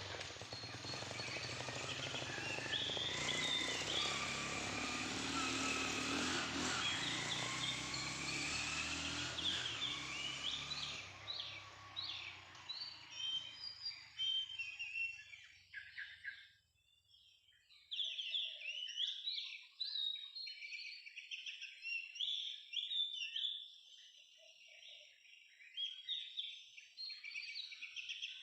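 Oriental magpie-robins chirping: many short, rapid calls overlapping one another. A steady rushing noise lies under the first half and fades out about halfway through.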